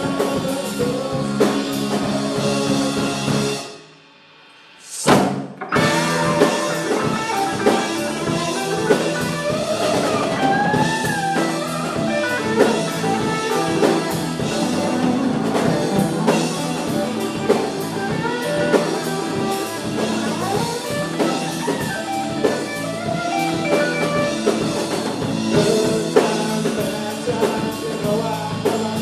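Live rock band playing with drum kit and guitar during a sound check. The music breaks off briefly about four seconds in, comes back with a loud hit a second later, and carries on.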